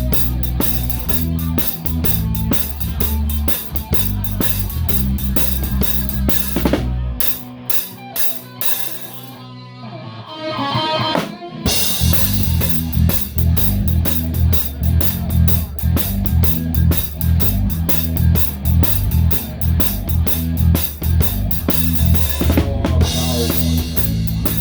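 Live band playing, led by a close-heard Pearl drum kit with its snare damped by a towel, over a bass line. About seven seconds in, the drums and bass drop out for a brief break, and the full band crashes back in around twelve seconds in.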